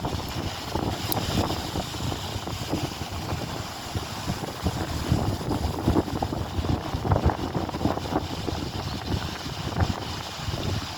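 Strong wind buffeting the microphone in uneven gusts: a steady low rumble with irregular bumps.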